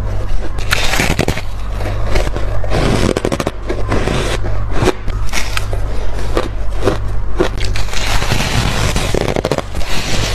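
Close-up crunching and crackling of frozen food coated in freezer frost being bitten and chewed: clusters of sharp cracks with short pauses between, over a steady low hum.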